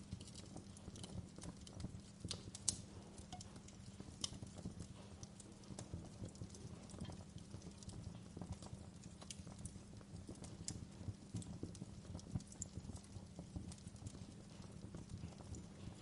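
Wood fire crackling in a fireplace: irregular snaps and pops over a low steady rumble. A few pops stand out louder, one about two and a half seconds in.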